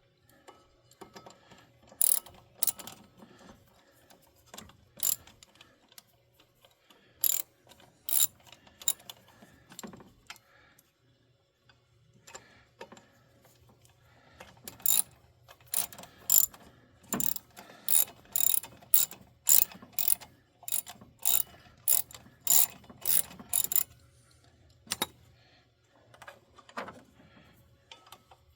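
Hand tools clicking against metal while working on a van's heater blower motor: irregular, sharp metallic clicks, sparse at first, then coming about twice a second for several seconds before thinning out again.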